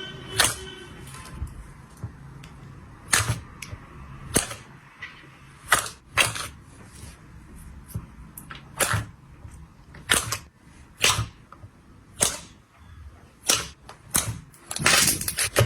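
Slime being pressed and worked by hand, giving sharp pops and clicks at irregular intervals, about one a second, with a quick run of them near the end.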